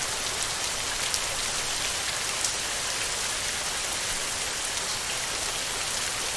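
Steady heavy rain drumming on a tin roof, a dense even hiss with individual drops striking sharply here and there.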